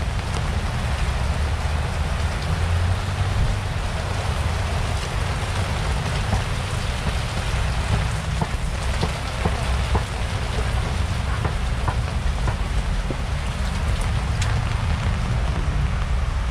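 Heavy typhoon rain pouring onto tarpaulin market awnings and plastic sheeting, with water streaming off their edges. There are scattered sharp drip hits over a steady low rumble.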